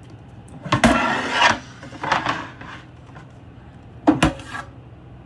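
Household items being handled and moved on a kitchen counter: a knock with a scraping rub about a second in, another brief rub, then a sharp knock near four seconds.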